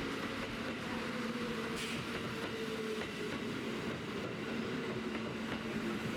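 Kintetsu electric train running on the line: steady wheel-on-rail running noise with a faint, steady motor whine.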